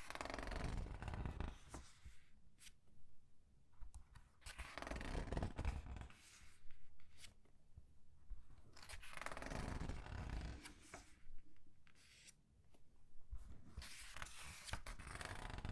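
Comic book pages being turned slowly and squeezed, the paper rustling in four drawn-out rustles about every four to five seconds, with small taps and clicks between.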